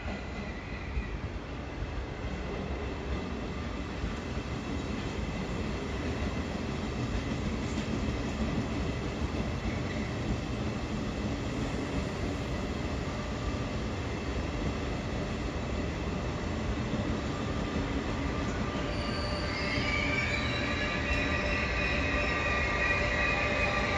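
Regional train rolling slowly along the station platform, its rumble slowly growing louder. In the last few seconds high, steady squealing tones from the wheels or brakes join in.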